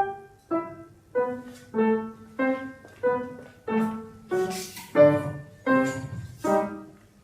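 Piano playing a steady series of struck chords, about three every two seconds, each ringing and fading before the next.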